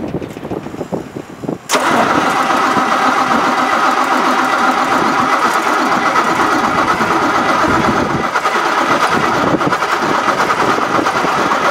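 The 1973 M35A2 truck's multifuel diesel is being cranked by its starter in freezing weather, a steady mechanical whir that starts abruptly about two seconds in and goes on unbroken. Before it there is wind noise on the microphone.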